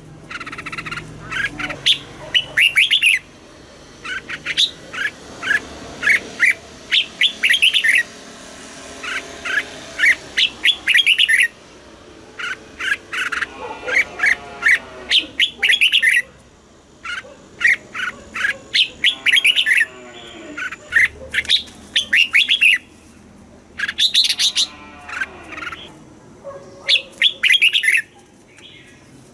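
Red-whiskered bulbul song: repeated bouts of quick, chirpy whistled notes, each phrase lasting a second or two with short pauses between.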